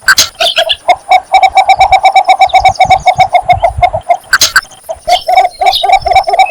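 Cinnamon bittern giving its mate-seeking call: a fast run of short, low notes, about seven a second, breaking off briefly about four seconds in and then resuming.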